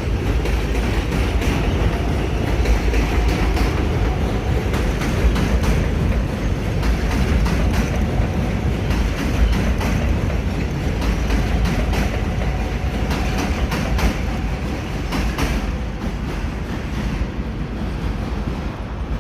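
New York City subway train running along the track, steel wheels clacking over rail joints with a continuous rumble, easing slightly near the end.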